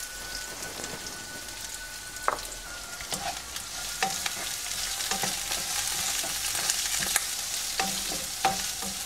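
Sliced shallots and curry leaves sizzling in hot coconut oil in a nonstick pan. A spatula stirs them from about two seconds in, with sharp clicks and scrapes against the pan.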